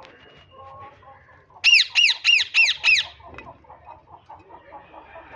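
Alexandrine parakeet giving five loud, harsh calls in quick succession, about a third of a second apart, starting a couple of seconds in, then a softer run of quick chatter.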